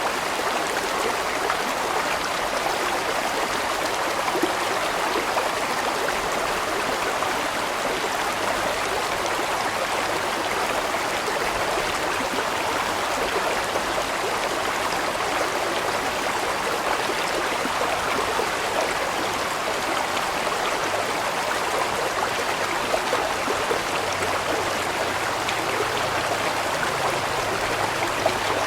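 A large mountain stream flowing steadily over rocks, a constant rushing and splashing of water.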